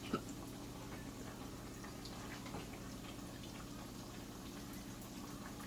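Plantain slices frying in hot oil, a faint steady sizzle with scattered light crackles over a low steady hum. There is a single light click just after the start.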